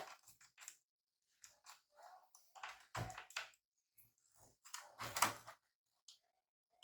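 Light clicks, taps and brief rattles of plastic laptop parts being handled during reassembly, coming in small clusters near the start, about three seconds in and about five seconds in.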